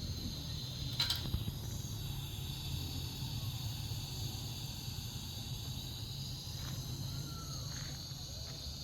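Steady outdoor background: an even high-pitched hiss over a low rumble, with a short sharp click about a second in.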